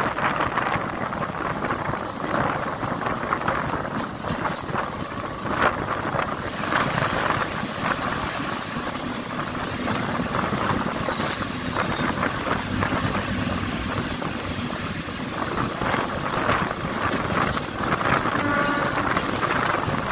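A moving passenger train heard from its open doorway: continuous rumble and clatter of wheels on the rails, with wind buffeting the microphone. A goods train of open wagons is passing on the next track, adding its own wheel clatter close by.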